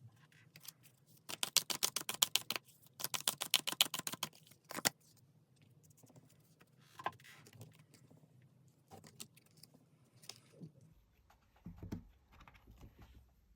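Tarot cards being shuffled: two quick runs of rapid clicking, about a second and a half each, followed by softer scattered clicks and rustles as the cards are handled.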